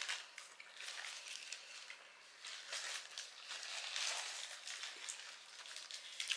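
Close-miked chewing of a mouthful of burger, soft and irregular, with a paper napkin rustling near the end.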